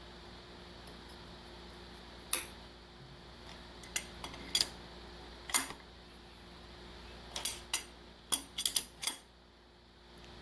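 Sharp metallic clinks of hand tools against steel engine parts, about a dozen at irregular intervals, several close together near the end, over a faint steady background hum.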